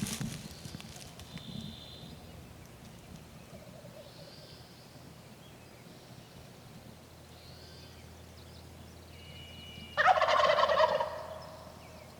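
A wild turkey tom gobbling once, loud and rattling, about ten seconds in. Faint songbird notes are heard before it.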